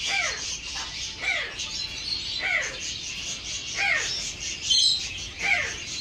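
A bird in an aviary gives five short calls, each sliding down in pitch, about one every second and a half. Under them runs a steady high twittering of many small birds, with one brief sharp chirp a little before the end.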